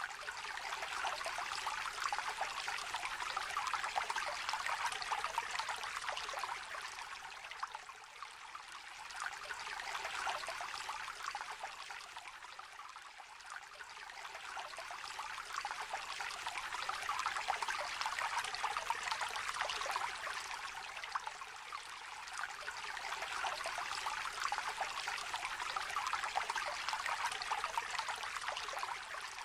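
Shallow river trickling and babbling over stones, a steady splashy rush that swells and eases every several seconds.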